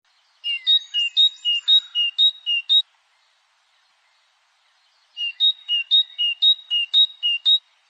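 European goldfinch singing: two phrases a couple of seconds apart. Each is a quick, even run of alternating lower and higher clear notes, about four notes a second.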